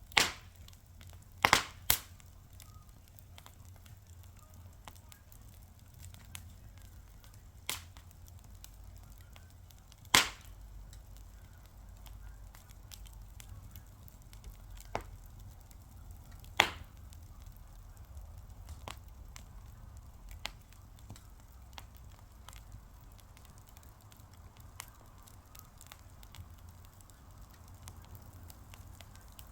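Wood fire crackling: a few loud, sharp pops, the biggest near the start and about ten and sixteen seconds in, with scattered small snaps over a steady low rumble of burning.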